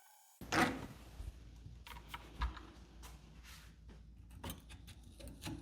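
Hands working on parts of an outboard's lower unit: scattered small metallic clicks, knocks and short scrapes, with a louder knock a little after half a second in.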